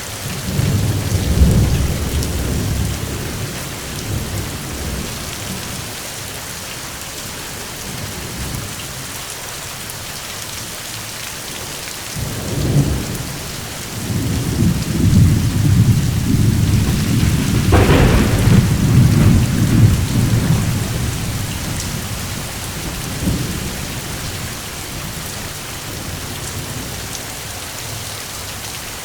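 Steady rain falling, with rolling thunder. Low rumbles come at the start and briefly a little before halfway, then a longer peal runs from about halfway to two-thirds through, with a sharper crack in the middle of it.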